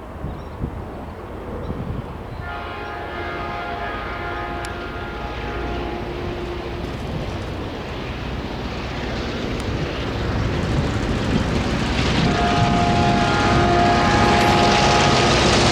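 Locomotive air horn sounding a chord twice, each blast a few seconds long, about two and a half seconds in and again near the end, over the rumble of approaching diesel locomotives that grows steadily louder.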